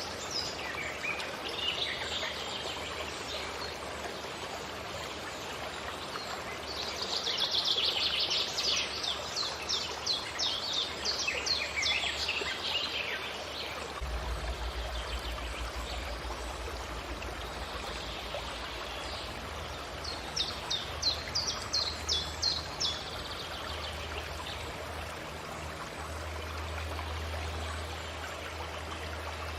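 Songbirds singing over steadily running water. A bird sings a quick run of rapidly repeated high notes about seven seconds in, and again about twenty seconds in, with scattered chirps between.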